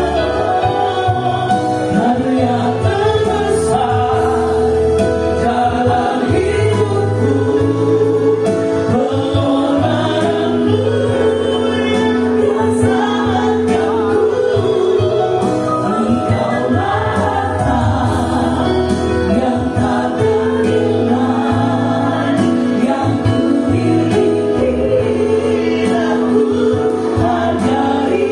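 A choir singing a Christian Christmas song over a steady instrumental accompaniment with sustained low notes.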